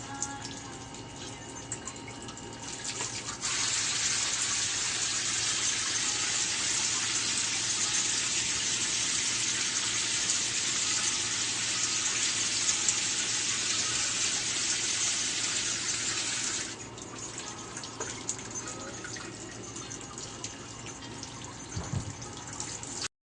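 Water running from a tap in a steady hiss. It is turned on suddenly about three and a half seconds in and shut off about thirteen seconds later.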